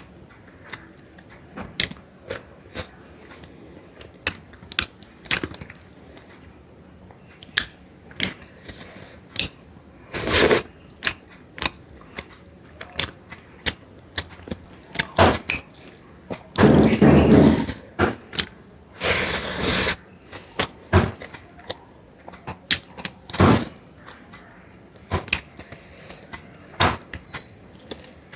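Close-up eating sounds: chewing and mouth noises made up of many short, sharp clicks and smacks, with two longer noisy bursts a little past halfway through, the first the loudest.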